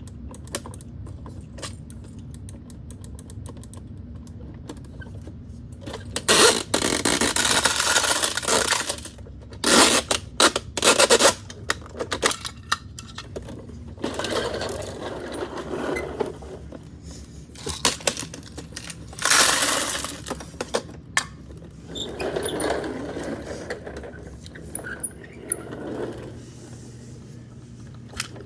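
Handling noise from toy garbage trucks: several bursts of scraping and rattling of small hard parts, with scattered clicks between them.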